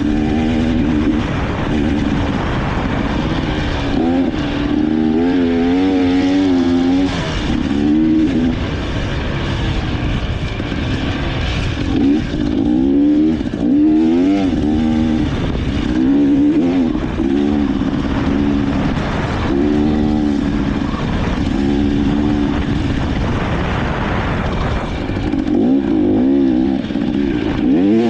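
Dirt bike engine running while being ridden, its revs rising and falling again and again with the throttle, over a constant rushing noise.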